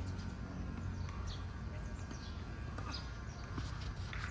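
A tennis match on an outdoor court: a few faint knocks of the ball bouncing and of footsteps, over a steady low background rumble.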